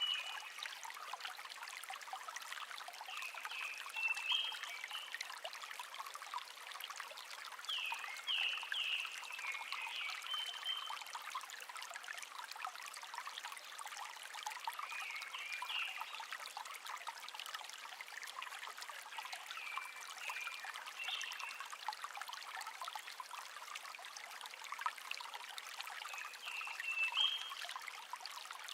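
A shallow stream babbling steadily, with a songbird's short, high chirping phrases every few seconds.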